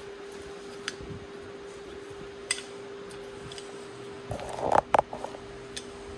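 Metal tools and parts being handled: scattered sharp metallic clicks and clinks, then a short louder clatter of knocks a little after the middle, over a steady hum.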